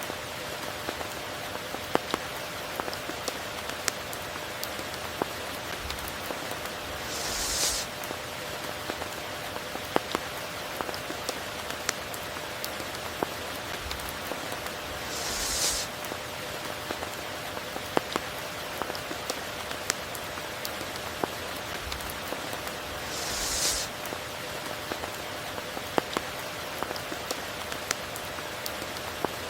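Steady heavy rain, with many sharp individual drops ticking over the constant patter. A brief, brighter rush swells up about every eight seconds, and a faint steady tone hums underneath.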